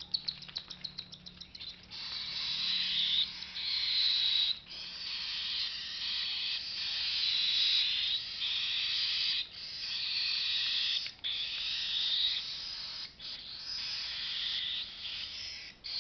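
Baby cockatiel chicks' raspy begging calls while being syringe-fed: a fast string of rasping pulses at first, then a near-continuous rasping call broken by a few short pauses.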